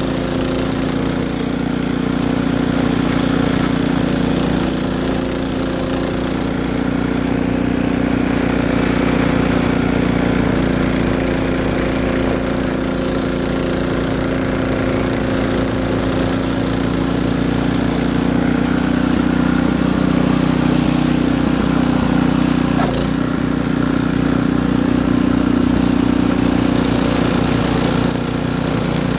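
Gas snowblower's small engine running steadily at working speed.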